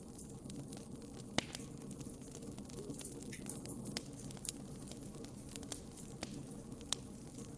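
Wood fire burning in a fireplace, crackling: a steady low rumble of flames with irregular sharp pops and snaps, two of them louder, about a second and a half in and near the end.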